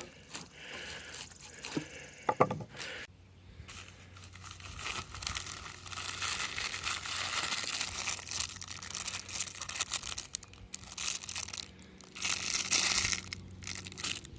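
A small package being cut and torn open by hand, its wrapping crinkling and tearing, with a louder spell of crinkling near the end.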